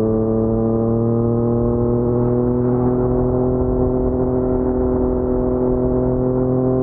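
Yamaha MT-09's crossplane three-cylinder engine running through an Akrapovic carbon full-system exhaust, pulling steadily, its pitch rising slowly and evenly as the bike gathers speed.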